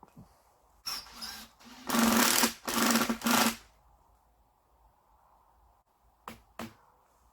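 Titan chainsaw's small two-stroke engine running in several short bursts of about half a second each, the loudest two to three and a half seconds in, then two brief blips a little after six seconds.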